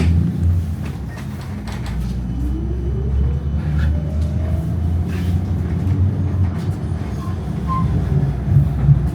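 Tram running on its rails with a steady low rumble. From about two seconds in, the traction motor's whine rises in pitch for a few seconds as the tram picks up speed.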